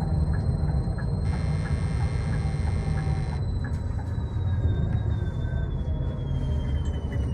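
Inside a moving bus: a steady low rumble of engine and road noise, with a high thin whine that slowly falls in pitch over the second half. About a second in, a hiss comes in for about two seconds and stops abruptly.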